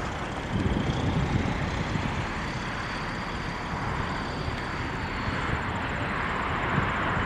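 Jet airliner engines running as a plane passes, a steady rumble and rush with a faint high whine in the middle.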